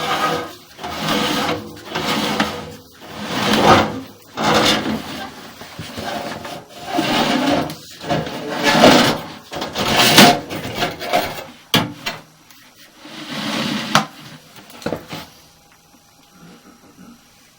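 Camera head and its cable or push rod being fed through dryer vent ductwork, scraping and rubbing against the duct walls in irregular strokes. The scraping stops near the end, leaving a faint steady hum.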